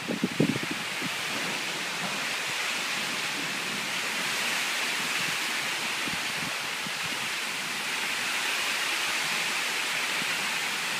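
Steady rain falling, an even hiss throughout. A few short, low thumps sound in the first second.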